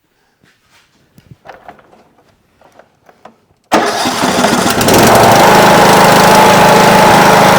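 Faint clicks of handling, then about three and a half seconds in the Troy-Bilt Pony riding mower's Briggs & Stratton engine starts abruptly and runs steadily and loudly. It is firing after a no-start caused by stale ethanol fuel that had gummed up the carburetor and stuck the fuel shutoff solenoid.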